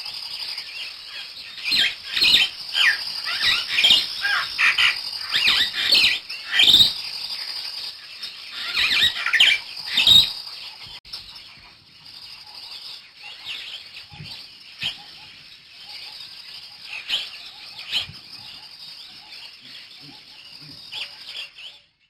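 Many small birds chirping, a dense run of quick, overlapping chirps for the first ten seconds or so, then sparser calls; the recording cuts off abruptly near the end.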